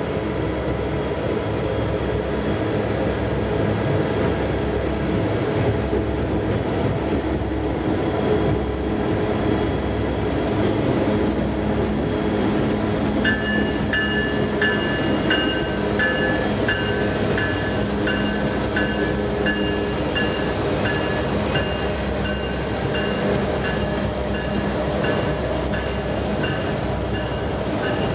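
A train running along the track with a steady rumble. From about halfway through, a high two-pitched ringing tone repeats about one and a half times a second.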